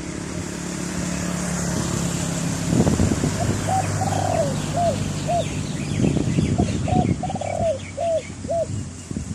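Dove cooing: a series of short arched coos, two of them longer and rolling, starting about three and a half seconds in and ending just before the close, over wind noise and a low steady hum.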